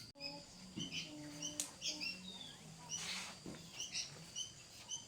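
Small birds chirping: short, high chirps repeating several times a second, over a faint low drone.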